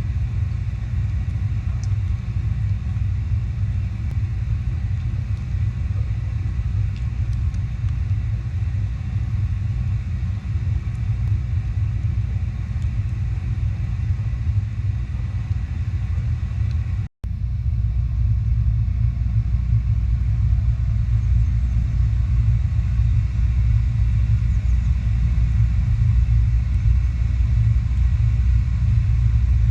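A steady low rumble, with a sudden break about seventeen seconds in where it cuts off and resumes slightly louder.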